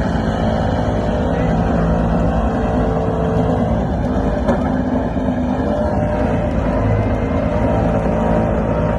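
Vehicle engine running at steady, high revs without letting up.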